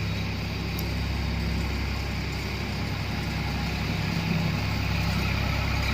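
Tractor engine running steadily with a low drone, slowly getting louder.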